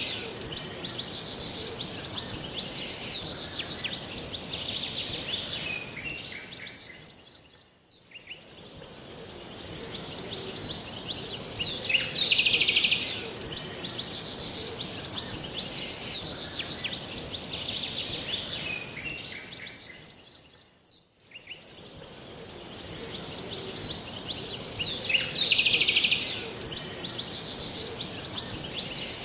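Birds chirping and singing over a steady high hiss, with a louder burst of bird calls twice, about 13 seconds apart. The whole sound fades down and back up twice.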